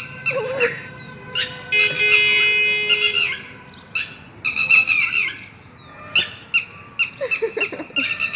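A bird calling loudly over and over in short, harsh squawks, with one longer held call about two seconds in: a parent bird crying out for its missing chick.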